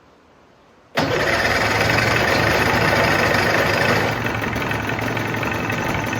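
Older 30-horsepower two-stroke outboard motor bursting into life about a second in and running steadily, a little lower from about four seconds in. This is its first test run, in which the water pump would not prime until the motor was later put in deeper water.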